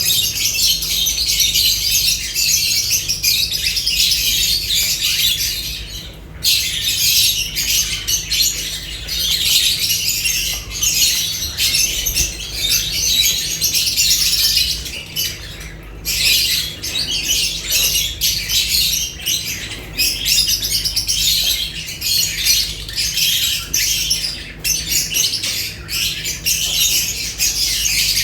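A group of lovebirds chattering and squawking continuously in shrill, high-pitched calls, with a brief lull about six seconds in and again around sixteen seconds.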